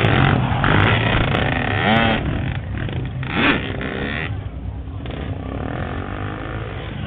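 Dirt bike and quad engines running close by amid crowd voices. The engines are loudest in the first couple of seconds and ease off after about four seconds.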